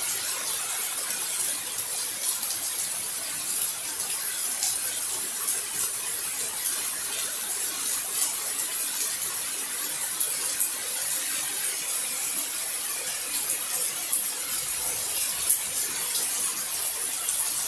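Heavy rain pouring down steadily, an even hiss with faint ticks of individual drops.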